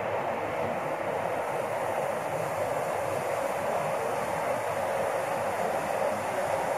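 Steady rushing hiss of airflow and air conditioning in an Airbus A330 cockpit at cruise, even and unchanging throughout.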